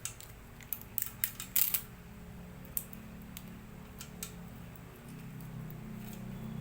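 Sharp clicks and short scrapes of small hard parts being handled during a laminator repair. The clicks come in a quick cluster about one to two seconds in, the loudest there, with a few scattered ones later, over a low steady hum.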